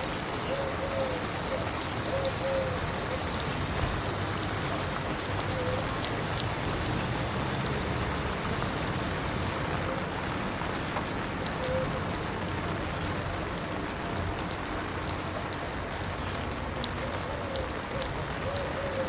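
Steady rain falling and pattering on hard surfaces, with scattered sharper drip ticks. A faint short squeaky note repeats a few times near the start and again near the end.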